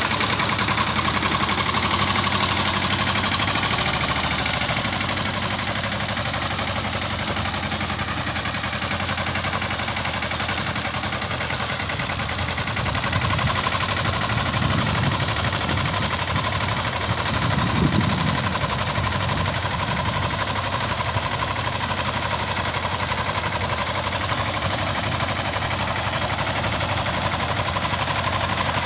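Diesel engine of a Captain 200 DI mini tractor running steadily at work, its exhaust a rapid, even knocking beat, with a short deeper swell of load a little past the middle.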